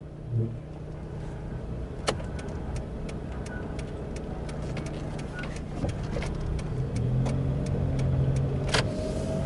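Suzuki Kei running with a sharp ticking from the wheel area, about three ticks a second in a steady rhythm, over a low engine and road hum, with one louder tick near the end. The noise comes from a disc brake rotor that rust has left in contact as the wheel turns.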